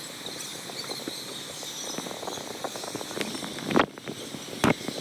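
Background din of a busy indoor water park, a steady wash of noise dotted with small clicks and clatters, with two sharper knocks near the end.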